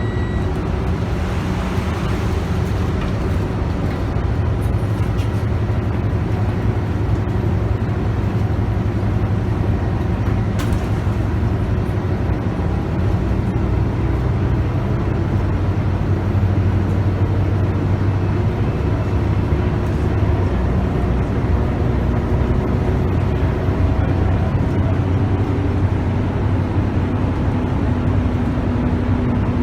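Scania K280UB bus's 9.3-litre five-cylinder diesel and ZF Ecomat automatic gearbox heard from inside, running steadily under way over road noise, the engine note climbing near the end. One sharp click about ten seconds in.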